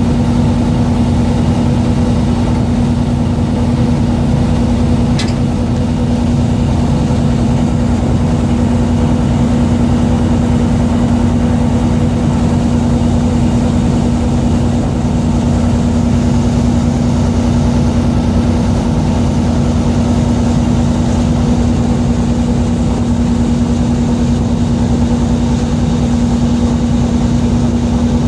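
A fishing boat's engine running at a steady speed, with a constant hum and low rumble. A single short click about five seconds in.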